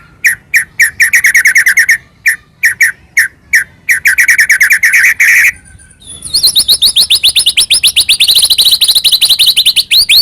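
White-rumped shama (murai batu) singing loudly in a series of repeated chirped notes. After a short break about six seconds in, it goes into a fast, even run of higher, rising notes, about eight a second.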